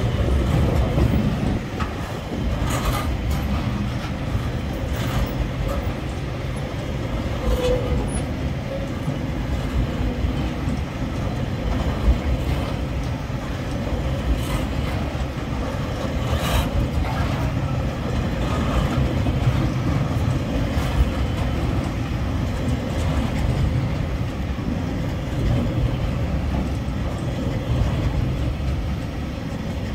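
Loaded freight wagons, carrying containers and logs, rolling past close by: a steady rumble of steel wheels on the rails, with occasional sharp clanks and clicks.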